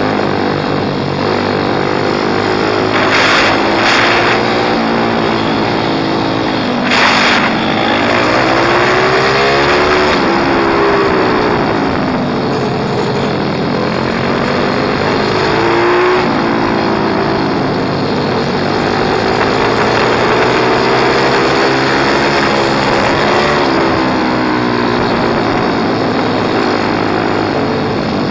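Small pit bike engine being ridden, its pitch rising and falling repeatedly as the throttle is opened and closed, with a couple of brief bursts of noise a few seconds in.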